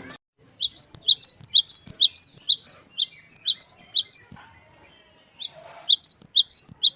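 Cinereous tit (glatik batu) singing a fast, high string of repeated two-note phrases, several notes a second. One long run of about four seconds is followed by a short pause and a second run of about a second and a half.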